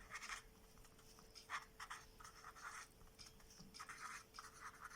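Faint scratching of handwriting: a run of short, irregular writing strokes.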